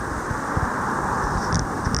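A road vehicle approaching, a steady rushing of tyres and engine that slowly grows louder.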